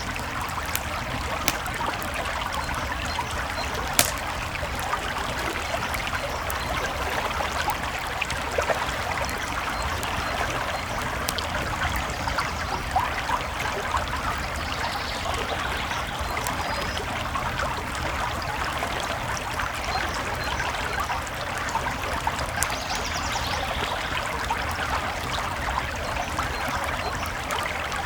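Creek water flowing steadily, with a campfire's crackles and pops scattered over it; one sharper pop about four seconds in.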